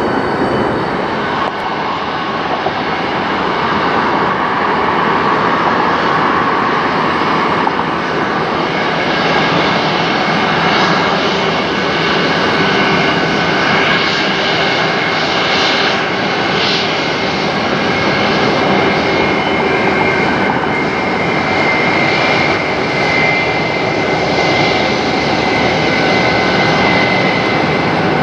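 Jet airliner engines running at high power, a loud steady rush of noise with high whining tones from the engines that grow stronger in the second half.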